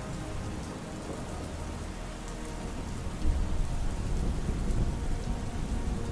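Steady rain falling, with a low roll of thunder that swells about halfway through.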